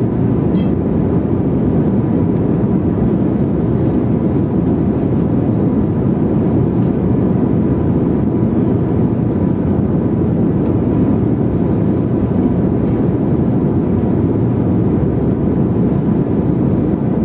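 Airliner cabin noise in flight: a steady, even low noise of the engines and airflow, with a faint steady tone above it.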